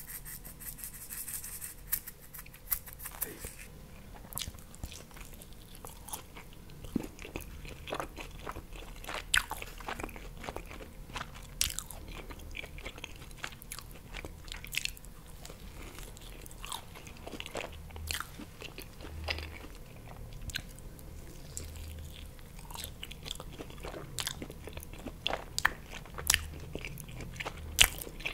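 Close-miked chewing and biting of pizza: irregular crisp crunches of the crust and wet mouth clicks, with no talking.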